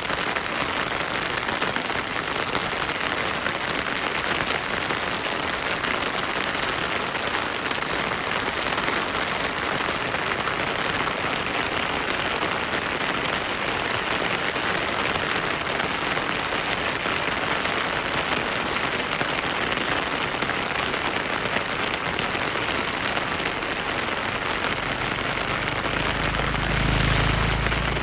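Heavy rain falling steadily on forest foliage and ground, with a brief low rumble near the end.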